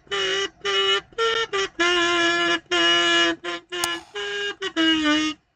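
A buzzy, reedy tone played as a halting tune of about a dozen short notes. The notes step a little up and down in pitch, with brief gaps between them, and the tune stops near the end.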